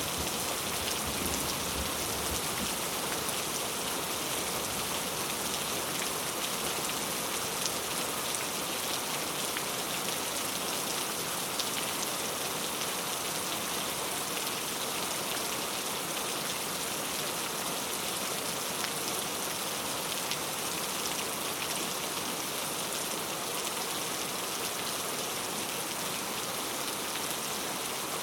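Steady rain falling, with scattered individual drop ticks over an even hiss.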